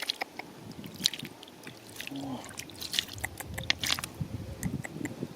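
Irregular sharp clicks and light knocks of river stones and gravel being handled, over a low wash of moving water.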